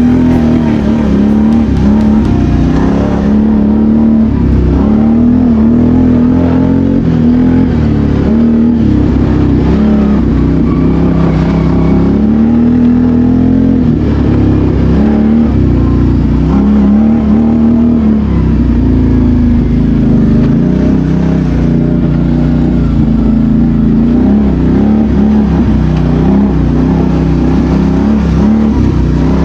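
BRP Outlander 650 ATV's V-twin engine running under way, revving up and falling back again and again as the quad is ridden, with its pitch rising and dropping every second or two.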